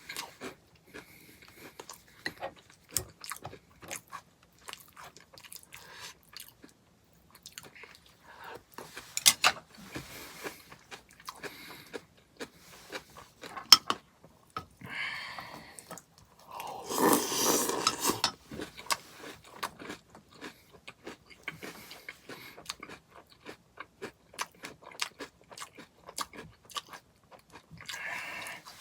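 Close-up chewing and crunching of granola cereal eaten in hot soup: many short crisp crackles, with a louder, longer noisy stretch about 17 seconds in.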